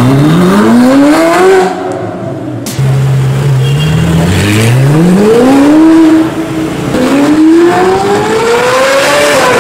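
Ferrari 458 Italia's naturally aspirated V8 through an iPE exhaust, revved loudly three times, each rev climbing in pitch and then falling back.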